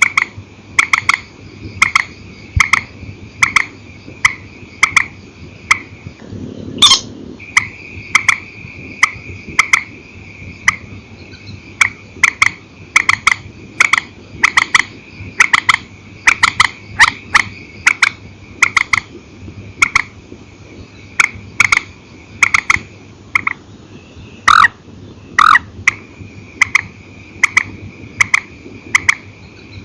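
Purple swamphen calling: short sharp calls repeated about twice a second, some in quick doubled pairs, over a steady high-pitched hum. A single loud click sounds about seven seconds in.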